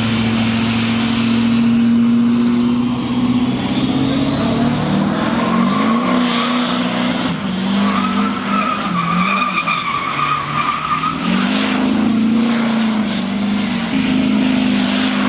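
A car doing a burnout: its engine is held at high revs that jump up and down, while the spinning rear tyres squeal in a wavering howl.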